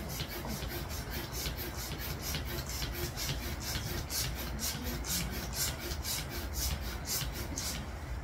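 Hand balloon pump worked in quick strokes, a short hiss of air with each stroke at about three or four a second, inflating a latex balloon; the pumping stops near the end.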